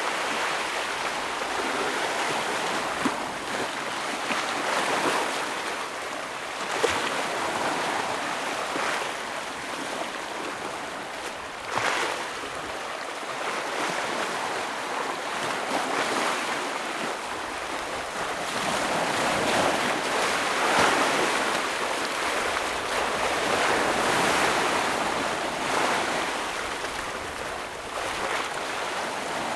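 Sea waves breaking against rocks, a hissing wash that swells and eases every few seconds, with a sharper splash about seven seconds in and another near twelve seconds.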